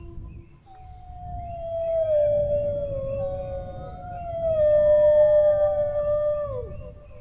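Dogs howling: two long, slowly falling howls that overlap, the first starting about a second in and the second joining near the middle, both dropping off in pitch near the end.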